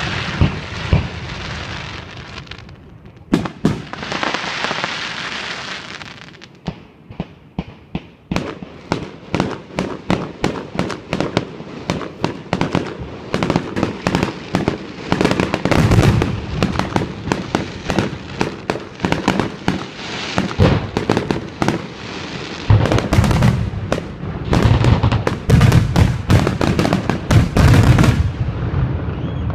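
Fireworks display: a hissing crackle over the first few seconds, then aerial shells bursting one after another, faster and denser into a heavy barrage near the end that stops shortly before it ends.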